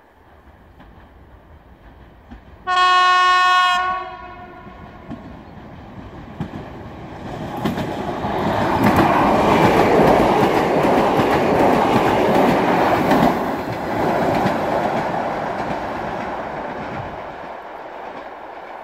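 An electric multiple unit passenger train sounds one horn blast, about a second long, nearly three seconds in. The train then runs past on the rails, its running noise swelling to a peak and then fading as it recedes.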